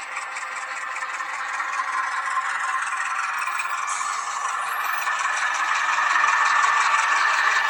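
H0-scale model of a Renfe Alco 313 diesel locomotive running on the layout's track: a steady whirring rattle of motor and wheels on rail, growing louder.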